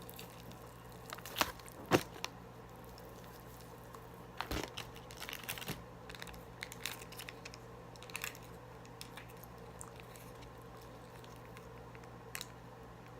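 Crispy fried chicken being bitten and chewed close to the microphone, with scattered crunches of the breaded crust. The loudest crunch comes about two seconds in, and a run of crackly bites follows around the middle.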